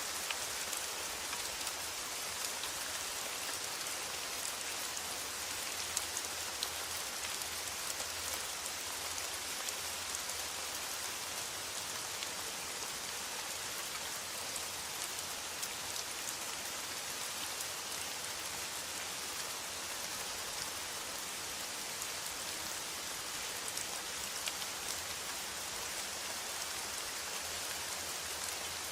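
Steady rain drumming on a metal roof: a dense, even hiss with individual drops ticking sharply through it.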